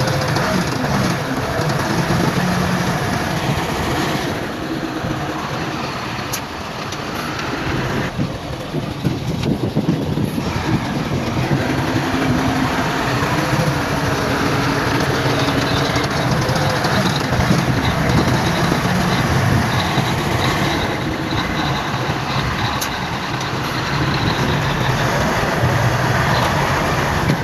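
Heavy diesel earthmoving machinery running under load, engine pitch rising and falling over continuous clattering and rumbling.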